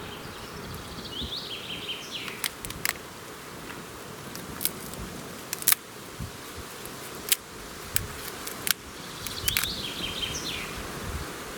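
A songbird singing two short, similar phrases, one near the start and one about nine seconds later, over steady outdoor background hiss. A dozen or so sharp clicks scattered through, the loudest about halfway.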